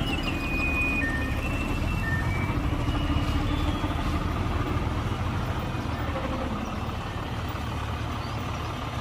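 Heavy diesel earthmoving machinery, a bulldozer or dump truck, running with a steady low rumble. Short high tones at changing pitches sound over it during the first few seconds, then the engine sound eases slightly.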